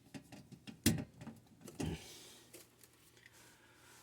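Small clicks and knocks of a pressure switch's parts and wires being handled and fitted back into place, with louder knocks about a second in and just before two seconds, then a faint hiss.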